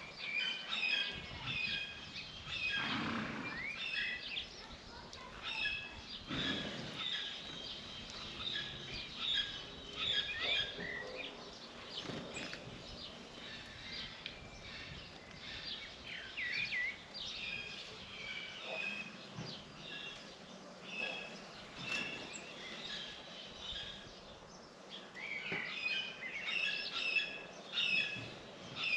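A flock of small birds chirping, many short calls overlapping almost without a break, busiest near the start and again near the end.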